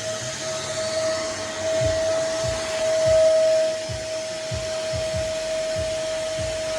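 Nunix wet and dry vacuum cleaner's motor running steadily: a rush of air under a constant high whine.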